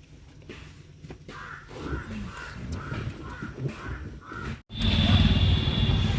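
A bird calling repeatedly, about two short calls a second, over a faint background. Near the end it cuts abruptly to the louder steady running noise of the car on the road.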